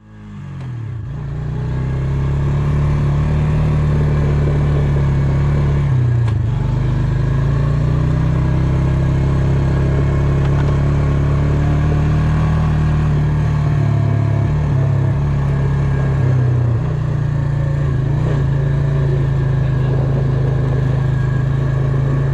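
A motor vehicle's engine running while driving: a steady low drone that fades in over the first couple of seconds, with its pitch dipping briefly about six seconds in and again around fifteen seconds.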